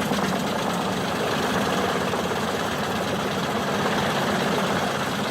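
A machine's engine running steadily at an even speed.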